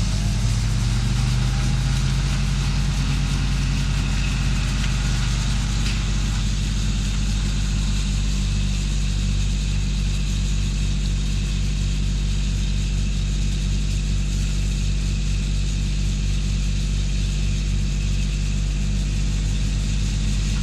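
Engine running steadily at a constant speed, cutting in abruptly at the start, with a slight change in tone about six seconds in.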